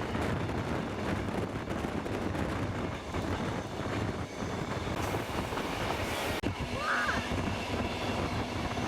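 Steam train running along the track: a steady rumble and rattle of the carriages on the rails, broken briefly about six seconds in, with a few short squeaks a second later.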